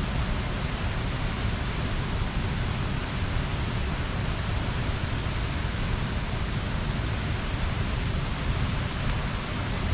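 Bonfire burning: a steady rushing noise with a few faint crackles.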